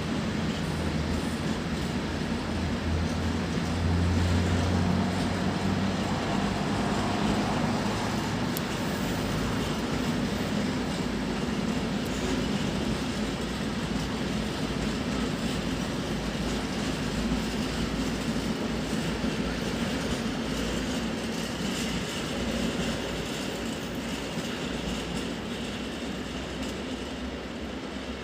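Freight train of tank wagons rolling past on the rails: a steady rumble of wheels on track with a low hum, loudest about four to eight seconds in and easing off towards the end.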